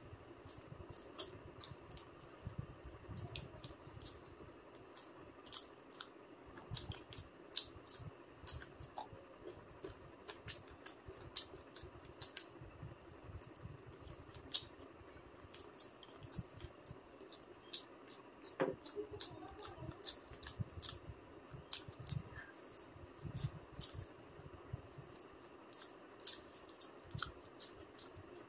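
A person chewing and eating food close to the microphone, with many sharp, irregular mouth clicks and smacks over soft low chewing thuds.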